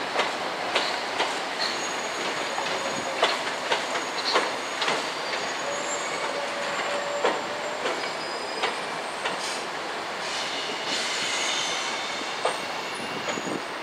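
A train rolling along the track, its wheels clacking irregularly over the rail joints, with short high-pitched squeals from the wheels on the rails.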